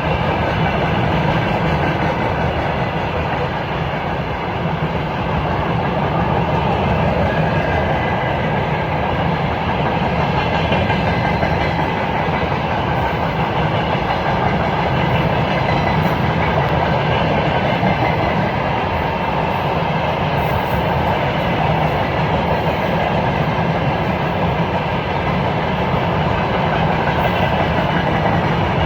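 Freight train rolling past at speed: a steady, loud rumble and clatter of wagon wheels on the rails.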